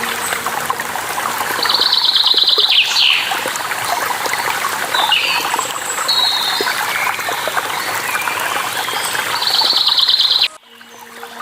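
Steady rush of falling water with birds calling over it: several quick high trills and chirps. Near the end the water and birds cut off suddenly, leaving a faint steady low hum.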